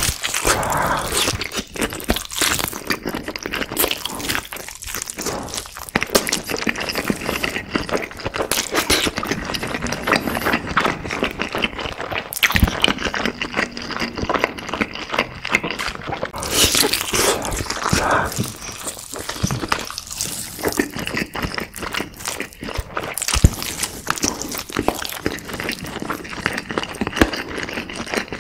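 Close-miked biting and chewing of a sauce-glazed roasted whole chicken leg: a steady run of wet smacks and clicks as the meat is chewed and pulled from the bone.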